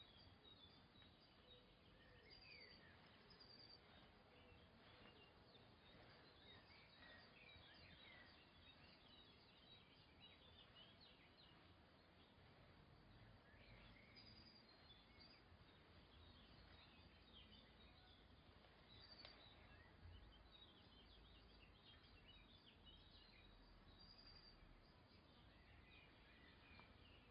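Near silence: faint background hiss with scattered short bird chirps throughout.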